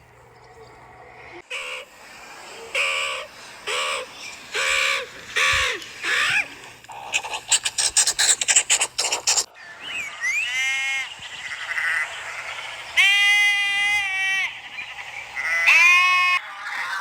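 A run of different animal calls. First a short call repeated about once a second, then a fast clicking rattle for a couple of seconds, then three separate wavering calls that fall in pitch, bleat-like.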